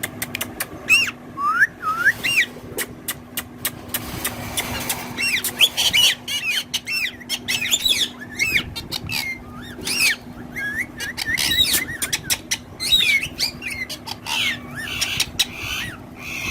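Pet parrots chattering: many sharp clicks mixed with quick, rising and falling whistled chirps in rapid succession, over a steady low hum.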